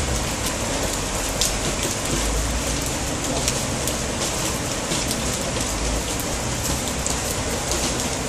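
Heavy rain falling steadily, with many sharp drop ticks close by.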